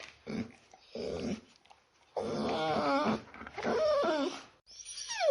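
A dog whimpering: two short low sounds, then two drawn-out whining cries with wavering pitch, and a cry falling in pitch near the end.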